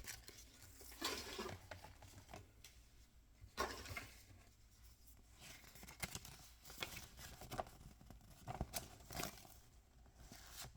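Hands handling small toys and their packaging: scattered light clicks and taps with brief rustles of wrapping, loudest a little after one second in, near four seconds and near nine seconds.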